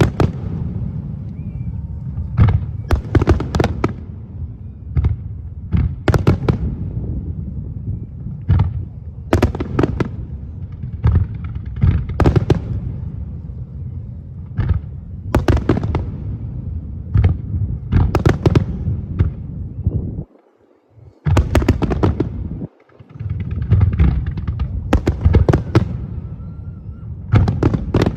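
Fireworks display: aerial shells bursting one after another, a sharp bang about every second over a continuous low rumble of booms.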